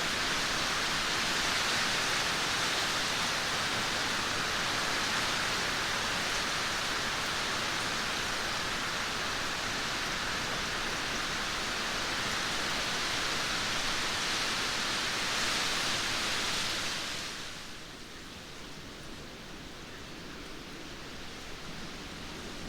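Heavy rain falling steadily, a dense even hiss, that eases to a softer, quieter rain about seventeen seconds in.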